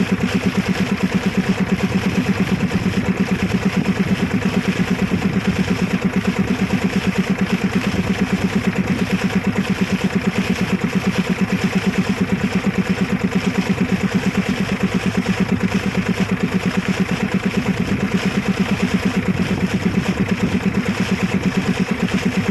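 An engine running steadily at an even speed, with a fast, regular pulsing beat that does not change.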